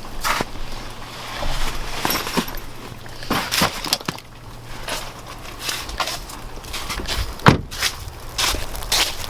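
Footsteps crunching through packed snow in an uneven walking rhythm, with one sharper crunch about seven and a half seconds in.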